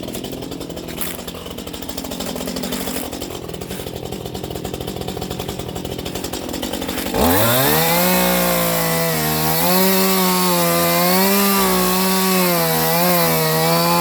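Chainsaw running at idle, then revved up about halfway through to full throttle. It holds a high, steady pitch that dips and wavers slightly as it cuts through wood, running freely on a freshly sharpened chain.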